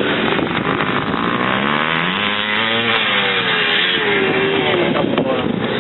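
Vintage 500cc motocross motorcycles racing, several engines revving at once. Their pitch climbs and falls, with one bike rising and dropping back in the middle.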